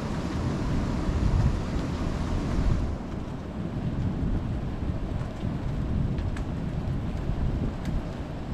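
Thunderstorm wind buffeting the microphone, with rain falling. It swells to a loud rush between about one and three seconds in, then eases, with a few faint ticks near the end.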